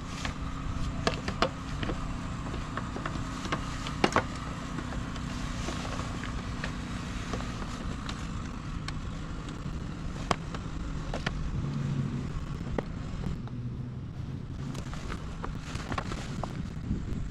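Yamaha BW's 100 air-cooled two-stroke scooter engine running steadily, with scattered sharp clicks and crackles over its low hum.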